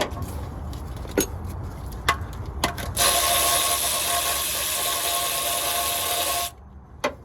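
A power tool runs steadily for about three and a half seconds on a very tight bolt, starting about three seconds in and cutting off suddenly. Before it come a few sharp metal clicks and clinks.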